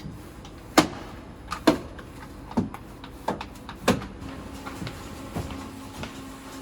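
A run of sharp knocks and clacks, five loud ones roughly a second apart and a few fainter ones after, over a steady low hum.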